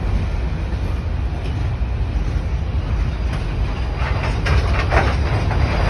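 Coal train rolling past: a steady low rumble of the cars on the rails, with a run of wheel clicks and clanks over the rail joints from about four seconds in.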